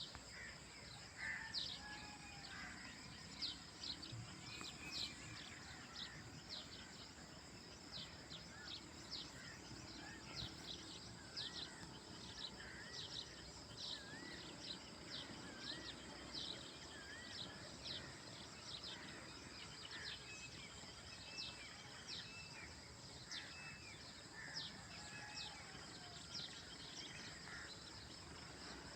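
Outdoor ambience: birds chirping and calling again and again over a steady, high insect drone.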